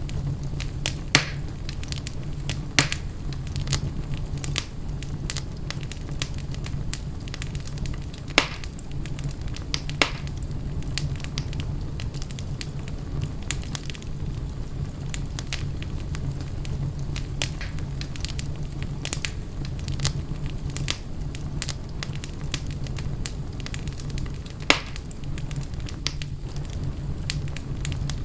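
Wood fire burning in a fireplace: a steady low rumble of flames with constant small crackles and a handful of louder pops and snaps, the first about a second in and one near the end.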